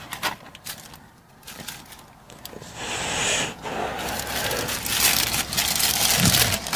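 Paper fast-food bag and burger wrapper rustling and crinkling as they are handled and opened, in irregular crackling bursts that grow busier about halfway through.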